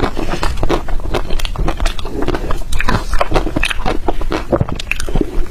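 A person biting and chewing soft, crunchy ice: a quick, irregular run of crunches and crackles.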